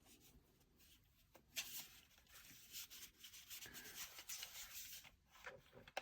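Faint rubbing and handling noises of a small plastic tyre inflator and its case being turned over in the hands, with a couple of small clicks about a second and a half in.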